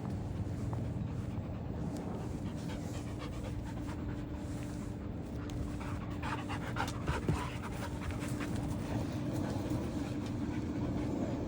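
A large dog panting steadily, over a constant low hum, with a few short clicks about two-thirds of the way through.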